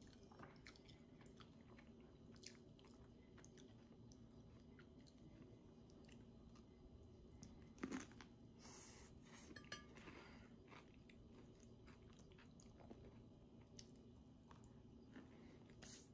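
Faint, close chewing and small crunches of toast being eaten, with a sharper click about eight seconds in.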